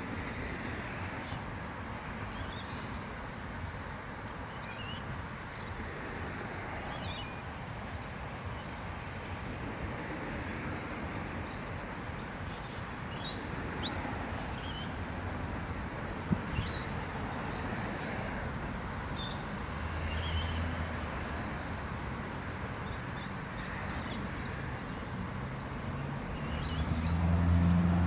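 Steady outdoor noise with scattered short bird chirps throughout. A low steady hum swells near the end.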